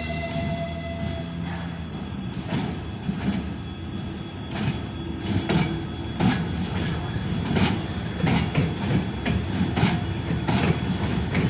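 Freight train rolling past, its wheels clacking irregularly over the rail joints, about one to two clicks a second. A fading musical tone trails off in the first second or so.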